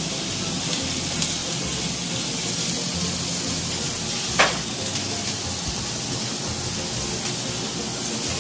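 Steak and chunks of carrot, beet and onion sizzling in olive oil in a skillet over a gas burner: a steady frying hiss. One sharp click about four and a half seconds in.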